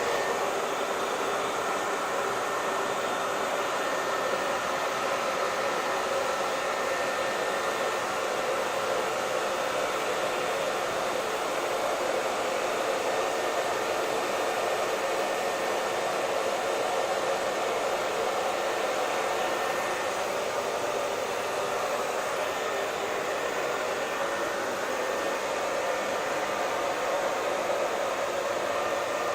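Electric hair dryer running steadily: an even blowing hiss from the fan and heater airflow, with a faint steady whine from the motor.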